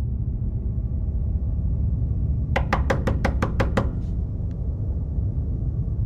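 A steady low rumble, with a quick run of seven sharp knocks about halfway through.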